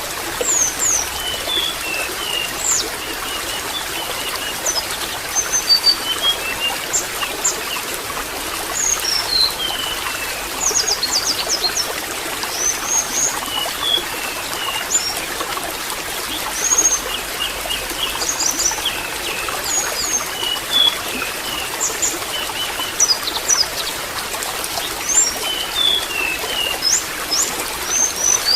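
Water trickling and splashing steadily, with many short, high bird chirps and whistles scattered throughout.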